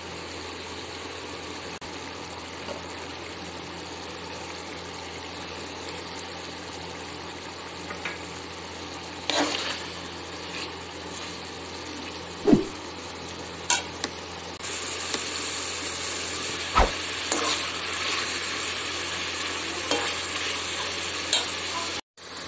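Chicken pieces sizzling as they fry in an aluminium wok, with a slotted metal spoon stirring and now and then knocking and scraping against the pan. The sizzle gets louder about two-thirds of the way through.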